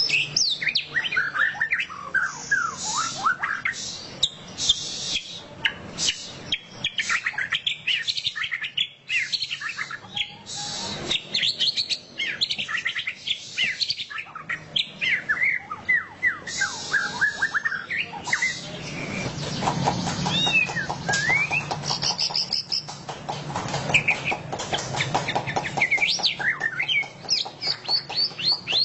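White-rumped shama (murai batu) singing loudly in the fast chattering 'ngeriwik' style: a dense run of quick chirps, whistles and gliding notes. A buzzy, rattling stretch comes in the second half.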